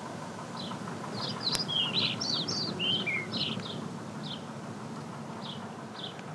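Small birds chirping over a steady background hiss: short, high chirps every half second or so, with a quick flurry of song in the first half. There is a single sharp click about one and a half seconds in.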